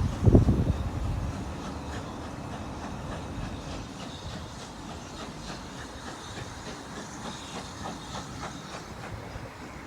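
Heritage railway train running along the track, a steady rumble with light repeated clicks from the wheels, after a few heavy knocks at the very start.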